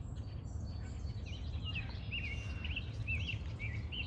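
A songbird singing a run of short, slurred whistled notes, starting about a second in, over a steady low rumble.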